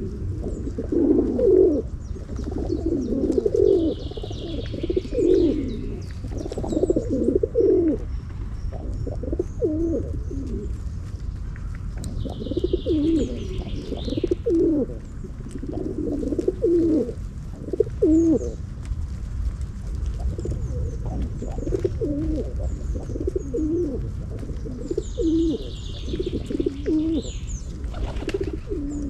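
Several pigeons cooing over and over, their low coos overlapping throughout, with a few short higher chirps from small birds now and then over a steady low rumble.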